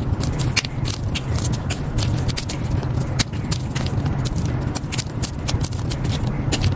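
Blocks of powdery gym chalk being crushed and crumbled, an irregular run of dry crunches and crackles over a steady low hum.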